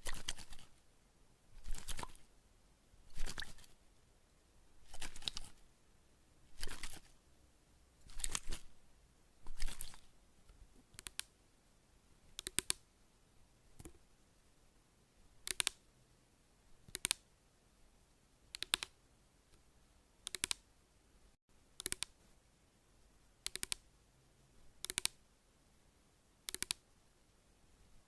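Crisp trigger sounds repeated about every second and a half: longer scratchy strokes in the first half, then short clicks, often in pairs.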